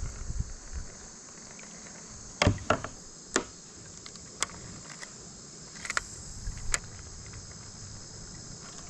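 Insects droning in a steady, high-pitched chorus, with a handful of short, sharp clicks and knocks between about two and a half and seven seconds in.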